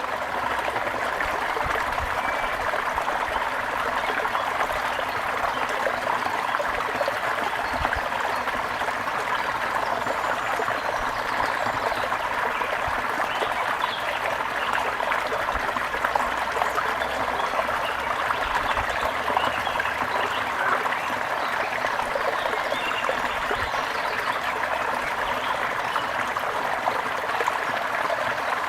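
Water running steadily in a stream, a constant rushing and trickling.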